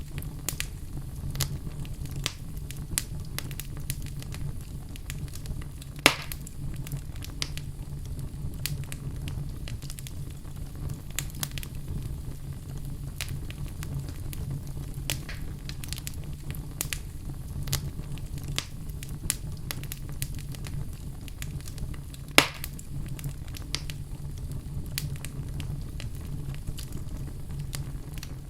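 Wood fire burning in a fireplace: a steady low roar of flames with frequent small crackles. Two sharp, louder pops stand out, one about six seconds in and one later on.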